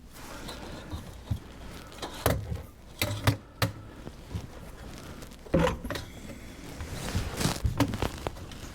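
Irregular knocks, clicks and scraping as plumbing parts and tools are handled and fitted under a kitchen sink, with the loudest knocks about two, three and five and a half seconds in.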